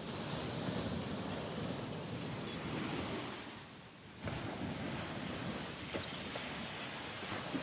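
Wind buffeting the microphone over the steady wash of surf, easing a little past three seconds and gusting back suddenly at about four seconds.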